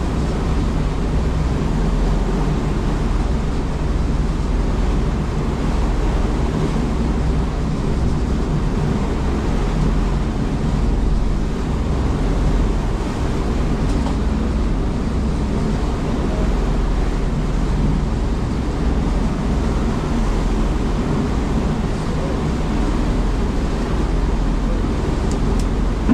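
A longline fishing boat's engine running steadily, a dense, even low rumble with no breaks.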